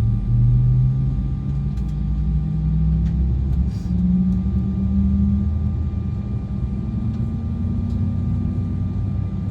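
Embraer 175's GE CF34 jet engines heard from inside the cabin while taxiing: a low rumble with a hum that rises in pitch over the first five seconds, then holds steady, as engine thrust is increased.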